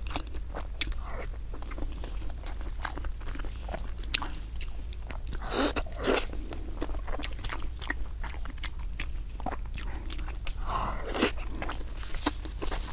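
A person eating close to the microphone: chewing and biting, with frequent sharp crunches and mouth clicks, a few louder ones near the middle and near the end, over a steady low hum.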